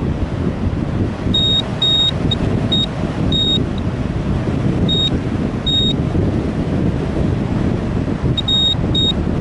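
Wind buffeting the microphone, with short high electronic beeps at a single pitch in irregular clusters, pausing for a couple of seconds midway.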